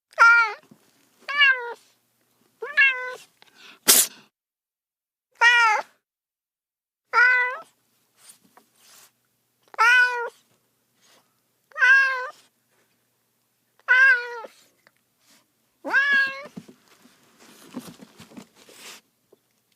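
Domestic cat meowing over and over, about ten separate meows spaced a second or two apart, each rising and then falling in pitch. A sharp click about four seconds in, and a soft rustling near the end.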